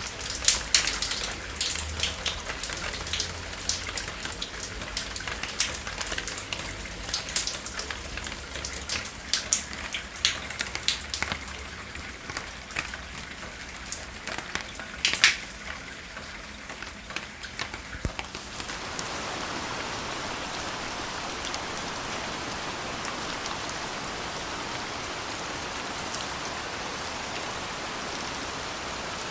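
Rain falling, at first with many separate drops striking loudly over a soft hiss. About two-thirds of the way through it changes suddenly to a steady, even downpour hiss.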